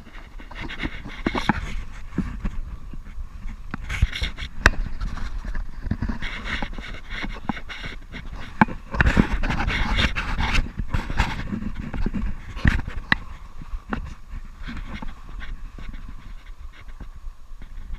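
A person panting heavily in irregular surges, loudest about halfway through, over a constant low rumble.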